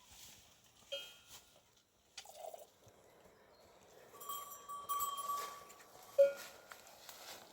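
Livestock bells clanking: a short ring about a second in, a longer ringing tone through the middle, and another short ring near the end.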